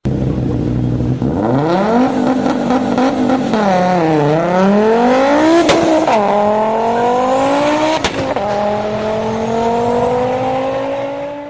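Car engine accelerating hard: the revs climb, dip and climb again, then drop sharply at gear changes about six and eight seconds in, with a sharp click at each of those shifts, before pulling up through the next gear.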